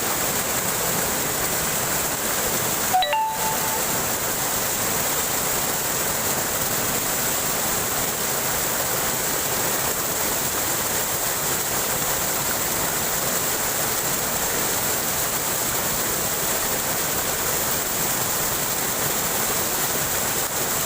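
Waterfall rushing steadily, an even wash of falling water. About three seconds in, a brief short tone sounds over it.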